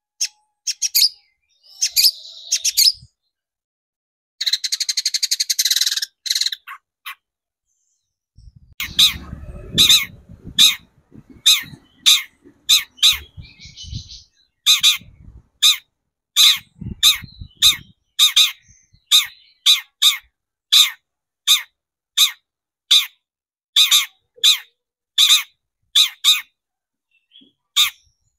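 Long-tailed shrike (cendet) singing: a few harsh calls and a short fast chattering run, then a long string of sharp, evenly repeated notes at about two a second.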